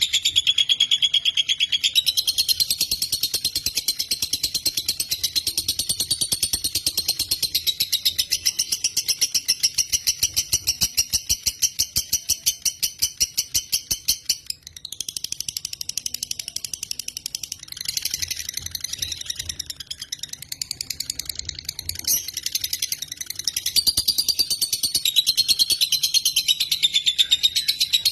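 Lovebird singing a long, unbroken run of very fast chattering notes. The song pauses briefly about halfway, goes softer for a few seconds, then picks up again.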